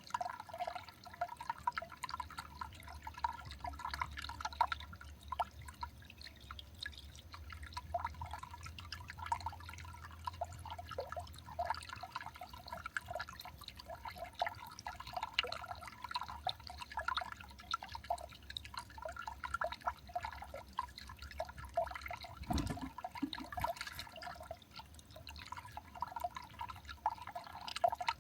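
Water dripping in a quick, irregular patter of drops, with one dull thump about two-thirds of the way through.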